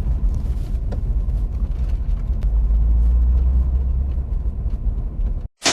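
Loud, steady low rumble with no clear rhythm, which cuts off abruptly near the end.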